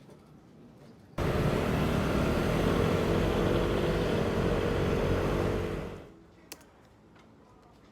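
A motor-driven machine switched on suddenly, running steadily with a noisy whir and a low hum for about five seconds, then winding down quickly.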